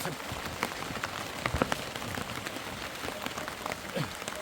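Heavy rain falling, a steady hiss with many sharp drop hits scattered through it; the loudest few hits come about a second and a half in.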